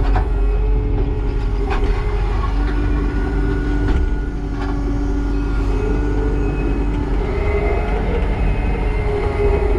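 Kubota SVL90-2 compact track loader's diesel engine running with its hydraulics working, the pitch shifting a little as the load changes, with a few sharp knocks.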